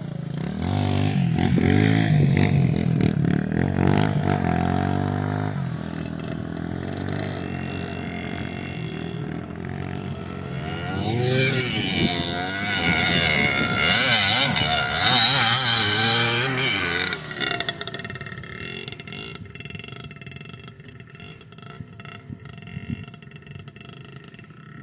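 Motorcycle engine running and rising and falling in pitch as it revs. Midway there is a louder stretch of rushing noise that cuts off abruptly about three-quarters of the way through, leaving a quieter running sound.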